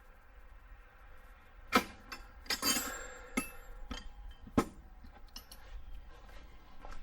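Metal hand tools clinking: a wrench knocking against metal brake fittings and hardware, a handful of sharp clinks with a jingling cluster about two and a half seconds in.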